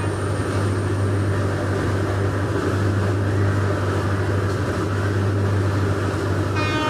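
Indian Railways electric locomotive and its train approaching: a steady low hum with a running rumble.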